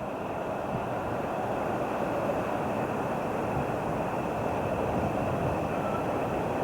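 Train running past on the tracks: a steady rushing rumble that builds slightly at first, then holds.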